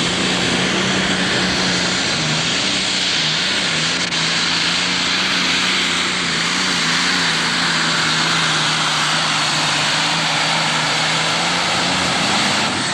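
Super Stock pulling tractor's turbocharged diesel engine running at full throttle under load: a loud, steady high drone with a wide hiss of exhaust and turbo over it.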